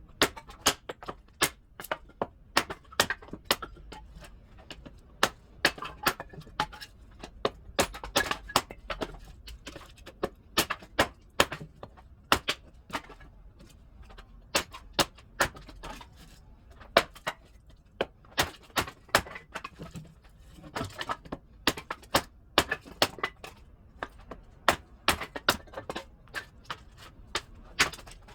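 Firewood being split into small pieces with repeated sharp blows on wood, about two or three knocks a second, in runs with short pauses between them.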